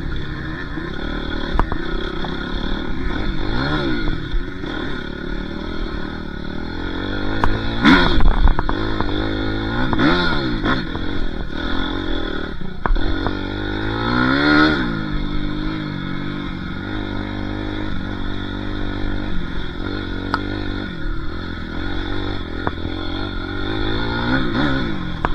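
Dirt bike engine revving up and falling back again and again under throttle, with a loud clattering knock about eight seconds in.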